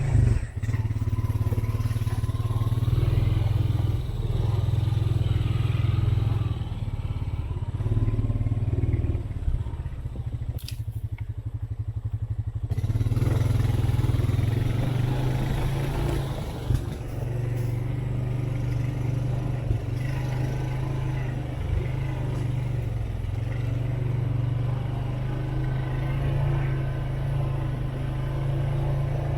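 Off-road four-wheeler's engine running as it is driven along a woodland trail, easing off and picking up again, with a few brief knocks.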